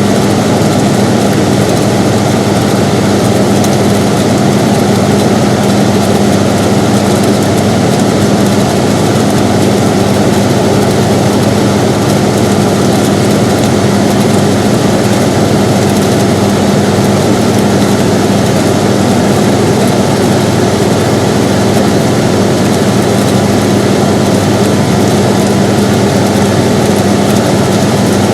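Air conditioner running steadily: an even rushing of air over a constant low hum, unchanging throughout.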